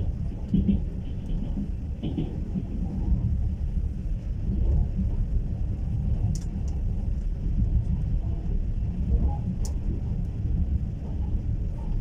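Steady low rumble of a passenger train carriage in motion, heard from inside the car, with a few faint clicks.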